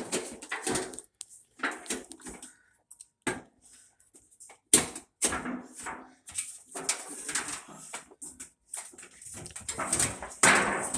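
A dog making short, irregular vocal sounds, with a few sharp knocks mixed in.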